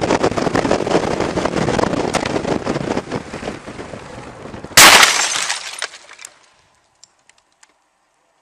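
A rally car at speed, its engine and road noise loud, then about five seconds in a sudden loud crash with glass breaking, followed by a few clinks of falling debris.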